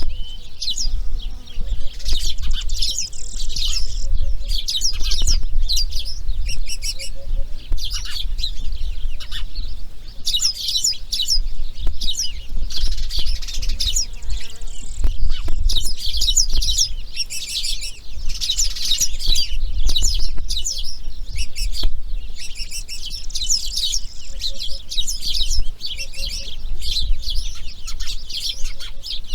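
Dense, rapid high chirping and chattering of birds, continuing without pause, over a steady low rumble.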